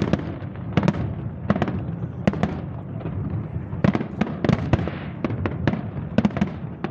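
Fireworks display going off: a rapid, irregular series of sharp bangs, about a dozen in the space of a few seconds, with a denser crackling stretch about four seconds in.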